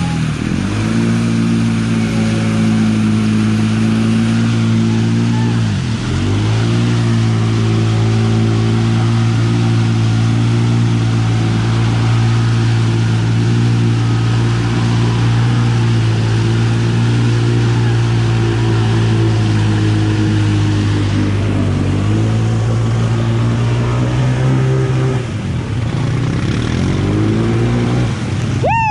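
ATV engine held at high revs under throttle, dipping briefly near the start and again about six seconds in, wavering near the end, then dropping sharply as the throttle is let off.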